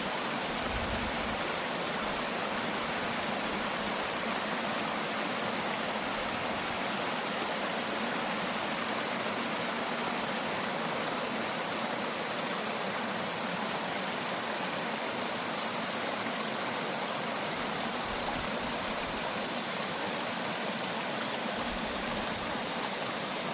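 Heavy rain pouring down in a steady rushing hiss, with a few brief low rumbles about a second in and near the end.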